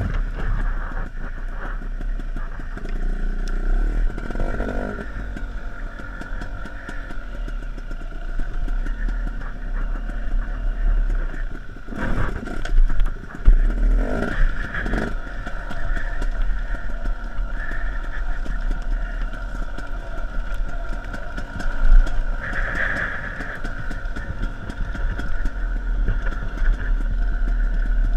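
Off-road dirt bike engine running on the trail, with the throttle blipped to louder surges of revving a little before the middle and again later on.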